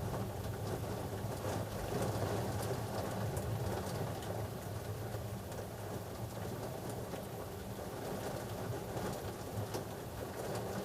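Rain falling during a thunderstorm, with scattered light ticks and a long, steady low rumble that eases slightly near the end.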